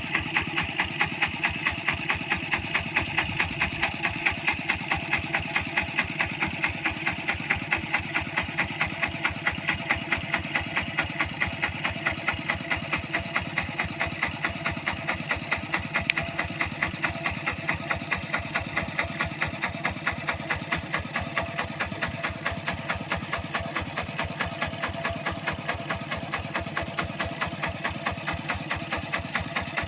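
Tractor engine in a rice paddy running steadily with an even, regular chugging beat that does not change.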